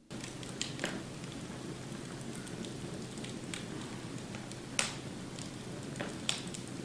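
Fire crackling in a fireplace: a steady hiss with scattered sharp pops, the loudest about five seconds in.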